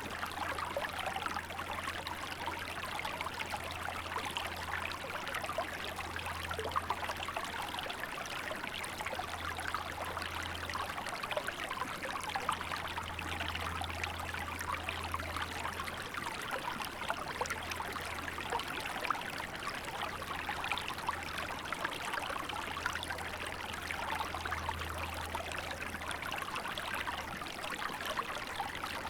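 Small river flowing, a steady, even rush of running water with a low rumble underneath.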